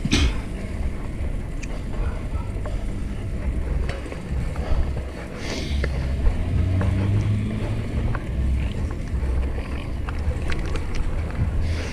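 Wind rumbling on a GoPro microphone as a fixed-gear bike is ridden along, a steady low rumble with scattered small clicks and rattles.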